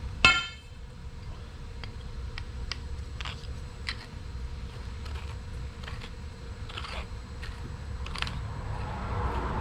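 A sharp metal clank with a brief ring just after the start, then scattered light clicks and taps of steel tools and bolts being handled, over a low steady hum.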